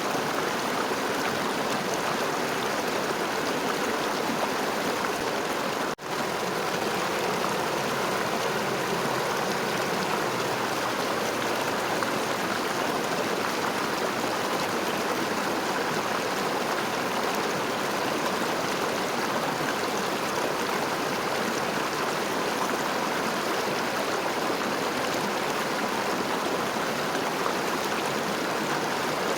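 River water flowing in a steady, even rush. There is a momentary break in the sound about six seconds in.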